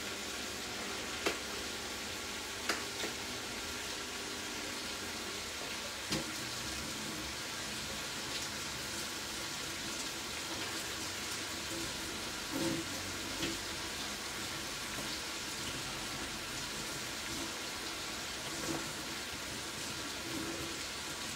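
Lamb offal frying in a pan: a steady, even sizzling hiss. A few sharp clicks come through it, knife taps on the cutting board beside the pan.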